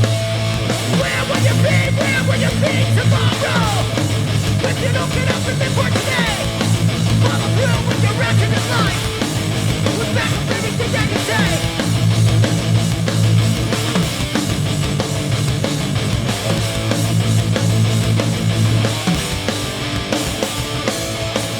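Hardcore punk band playing live, with loud, dense distorted electric guitar.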